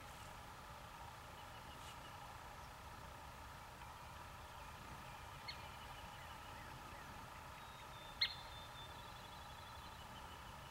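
Quiet outdoor ambience with birds calling in the background. A short sharp call about five and a half seconds in, and a louder one about eight seconds in followed by a brief trill.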